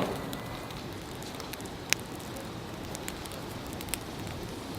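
Oak wood fire crackling over a steady hiss, with a sharp pop about two seconds in and another near the end.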